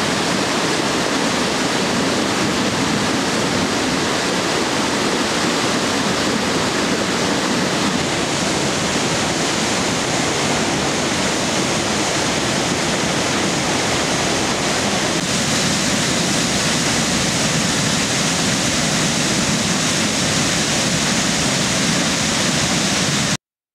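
Waterfall on a mountain stream: falling water making a steady, unbroken rush that cuts off suddenly near the end.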